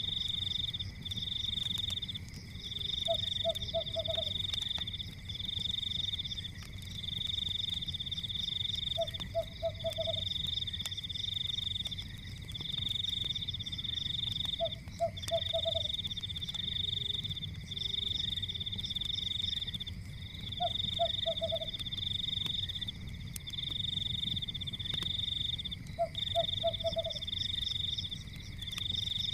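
Night nature ambience: a high trill in long pulses with short gaps and a steady fainter whine under it, and a frog croaking a quick three- or four-note call about every six seconds. A low rumble and faint scattered crackles of a fire run beneath.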